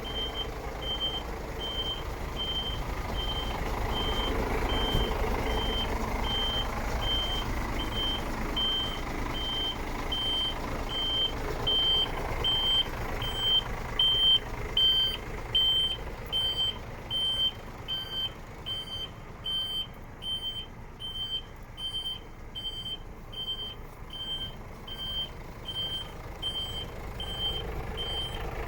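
Truck reversing alarm beeping steadily about twice a second over the low running of a Scania R124.360 truck's engine. The beeps grow louder and clearer about halfway through.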